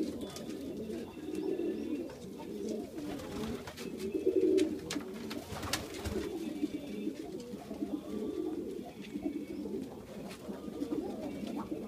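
A flock of Iraqi domestic pigeons cooing continuously, many calls overlapping, with a few short sharp sounds among them.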